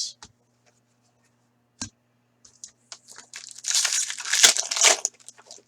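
A single click, then the foil wrapper of a hockey card pack being torn open and crinkled for about three seconds.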